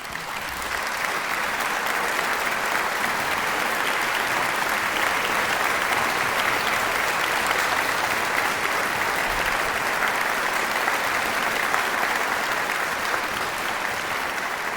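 Crowd applause, a dense steady clapping that fades in at the start and eases off slightly near the end.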